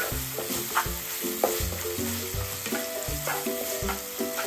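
Bell peppers sizzling in olive oil in a frying pan, with a few short scrapes from stirring, over a light background melody.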